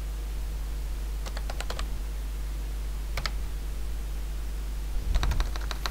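Computer keyboard being typed on in short runs: a quick burst of keystrokes a little after a second in, a keystroke or two around three seconds, and another quick burst near the end, over a steady low hum.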